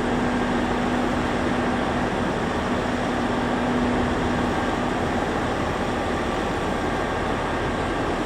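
Steady machinery noise of a train standing or moving at the station, with a low steady tone that cuts off about halfway through.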